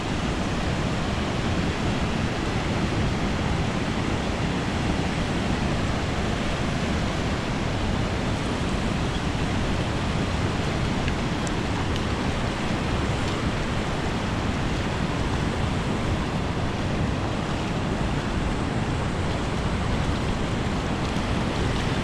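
Steady, even rush of waves and wind, with no single sound standing out.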